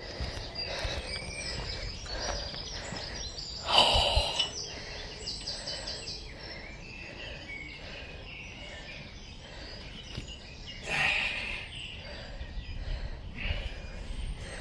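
Outdoor ambience with birds chirping faintly, broken by two brief noisy bursts about four and eleven seconds in.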